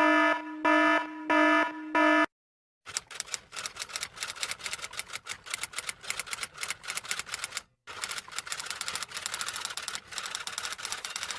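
Four short, evenly spaced buzzing beeps, like an alarm buzzer, then rapid irregular typing clicks of a typewriter or keyboard, several a second, with one brief pause.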